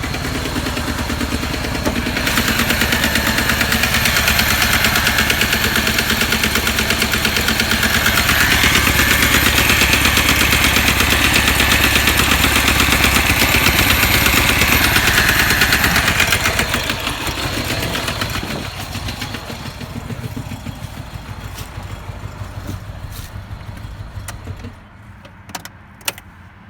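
2008 Chevy Cobalt LT engine running with a very loud, rapid knock. The engine is leaking a large amount of oil and has lost much of its power. The sound gets louder about two seconds in, stays loud until about sixteen seconds, then drops back, and falls away sharply near the end, leaving a few clicks.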